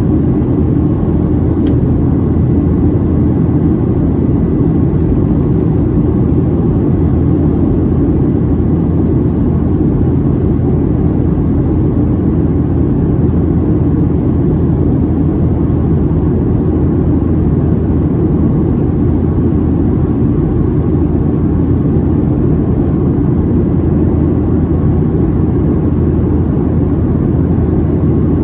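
Steady cabin noise of a Boeing 737-700 in flight: the deep, even drone of its CFM56-7B turbofan engines and the rush of air over the fuselage, heard from a window seat behind the wing.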